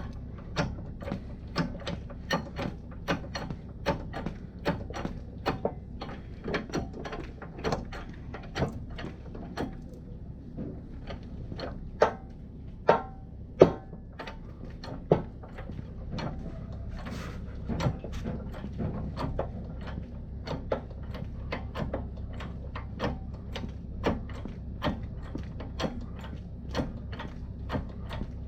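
Repeated sharp clicks and taps of hand-tool work on metal, about two a second, with a few louder knocks about halfway through.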